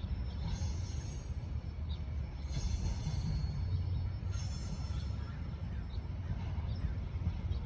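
Freight train rolling by with a steady low rumble, broken three or four times by brief high-pitched wheel squeals.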